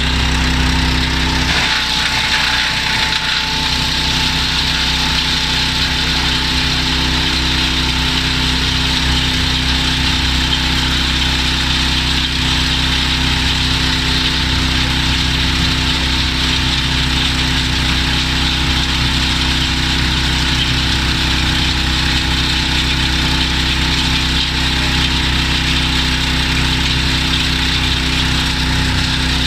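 Petrol engine of a drum wood chipper running steadily at constant speed, with a brief change in its note about two seconds in.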